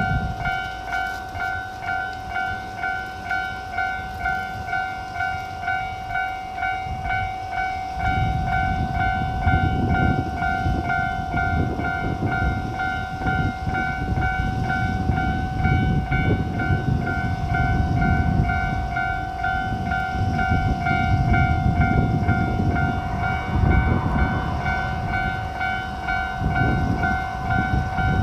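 Railway level-crossing alarm ringing in even pulses, about one and a half a second. About eight seconds in, the heavy rumble of a passing diesel train starts and runs on under the alarm.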